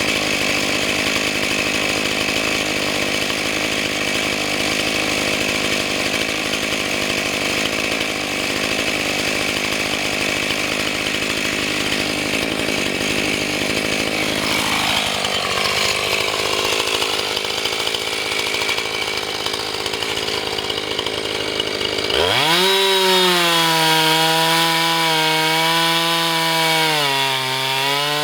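Husqvarna 445 two-stroke chainsaw running on an Alaskan chainsaw mill, ripping through an oak log. Its sound changes partway through, and from about three-quarters of the way in the engine screams at high revs with a strong steady pitch that sags slightly near the end.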